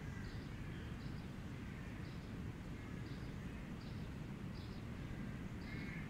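Outdoor ambience: a bird's short high chirps repeat about once a second over faint distant birdsong and a steady low rumble of wind on the microphone.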